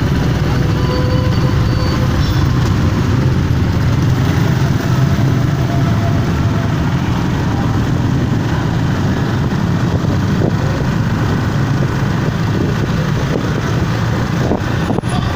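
Motorcycle engines running in a steady low rumble.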